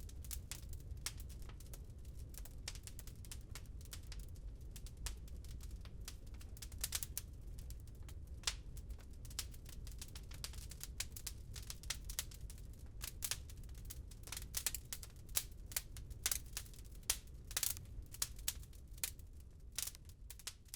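Wood fire crackling in a fireplace: irregular sharp pops and snaps, more frequent in the second half, over a steady low rumble.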